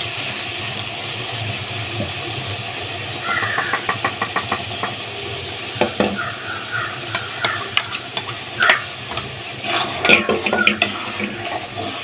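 Tomato paste and masala sizzling in hot oil in a steel kadhai, under the scrapes and clinks of a steel spatula on metal, with a run of quick clicks a few seconds in.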